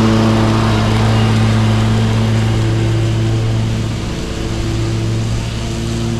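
Commercial lawn mower engine running steadily under load as it mulches leaves, with a constant, even pitch. Its sound eases slightly about four seconds in, then comes back.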